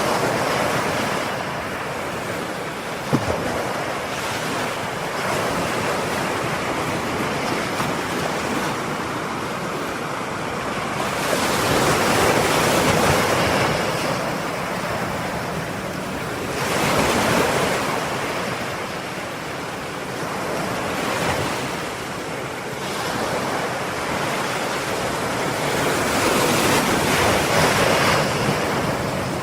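Ocean surf: waves breaking and washing ashore one after another, the rush swelling and easing every few seconds. A brief sharp knock sounds about three seconds in.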